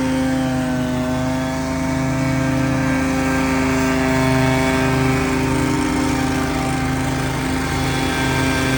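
Engine of lawn-care equipment running steadily under load, with a brief slight dip in pitch about a second in.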